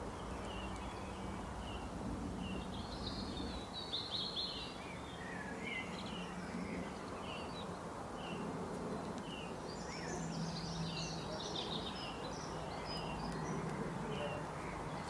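Birds chirping: many short calls, busiest about four seconds in and again around ten seconds, over a steady outdoor hiss and a faint low hum.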